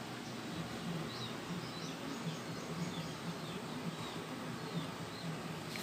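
Birds chirping, with short high chirps repeating throughout over steady background noise.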